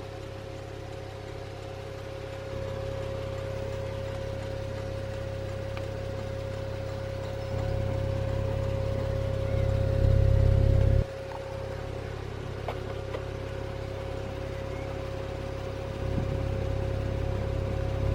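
Porsche 911 Turbo's twin-turbocharged flat-six idling with a steady hum. A low rumble under it steps louder several times and drops off sharply about eleven seconds in.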